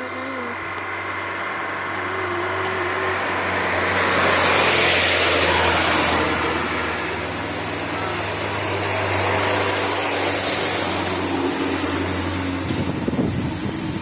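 Heavily loaded truck's engine working hard on a climb, its loudness swelling twice. A high steady whistle from the turbocharger comes in about halfway through and keeps going.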